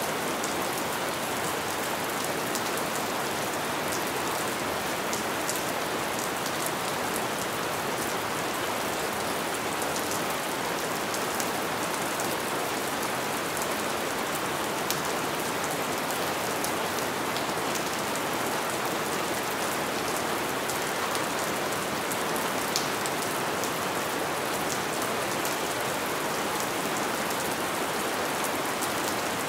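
Light rain falling steadily: an even hiss with many small scattered drop ticks.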